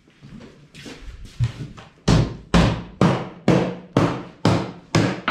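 A run of about seven sharp knocks, evenly spaced about two a second, starting about two seconds in after a few fainter knocks, each ringing briefly.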